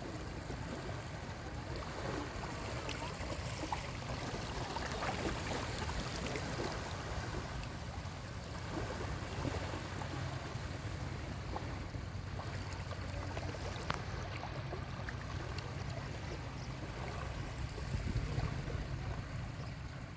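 Sea waves washing onto the shore: a steady, even rush of surf over a low rumble, with a few brief sharp ticks.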